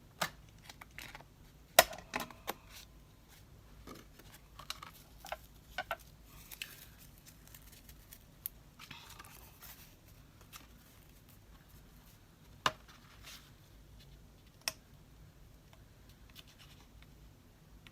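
Small craft tools and paper being handled on a work table: scattered sharp clicks and taps, the loudest about two seconds in, with a few brief scratchy rustles of paper.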